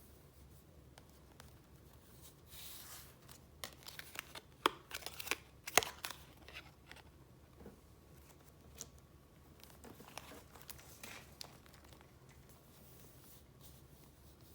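Paper being handled: sheets and wrapping rustling and crinkling in a busy cluster of sharp crackles, with two loudest snaps, then a few softer rustles a few seconds later.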